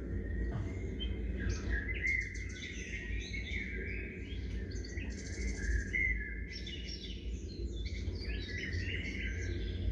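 Several small birds chirping and calling over one another in a busy chorus, with a fast buzzy trill about five seconds in. A steady low rumble runs underneath.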